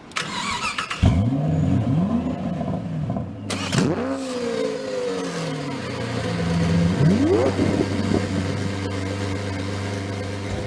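A vehicle engine running and being revved about three times, its pitch rising and falling a second in, near four seconds and around seven seconds, over a steady idle.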